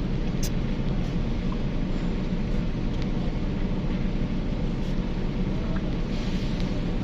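Steady low engine rumble with a constant hiss, from engines running on a roll-on roll-off ferry's vehicle deck; a couple of faint ticks near the start.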